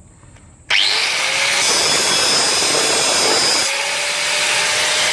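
Angle grinder starting up about a second in, its whine rising to full speed, then grinding down a broken hardened-steel easy out (screw extractor) stuck in an exhaust stud, with a harsher, hissier stretch of cutting in the middle.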